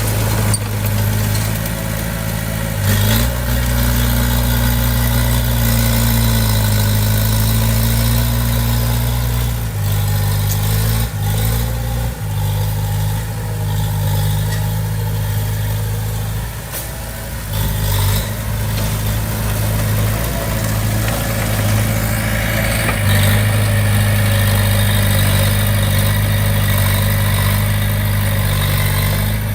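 Bulldozer's diesel engine running steadily, its pitch and level shifting several times as the load changes, with a few short knocks along the way.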